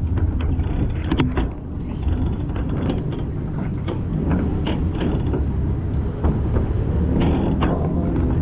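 A vehicle's steady low rumble in traffic, with scattered short clicks and creaks over it.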